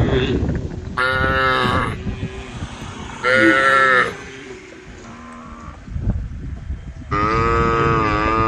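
A cow mooing three times: a call about a second in, a shorter one past the three-second mark, and a longer call starting near the end.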